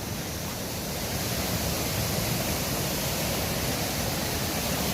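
Waterfall rushing: a steady wash of falling water that grows a little louder about a second in.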